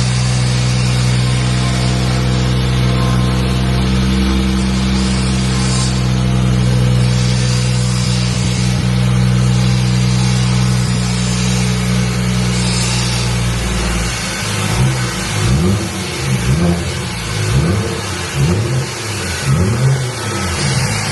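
BMW 540i's B58 turbocharged inline-six running through a straight-piped exhaust with the mufflers deleted, idling steadily, then revved in a run of short quick blips during the last third.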